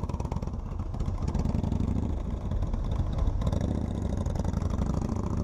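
V-twin motorcycle engine running steadily, a fast even stream of firing pulses.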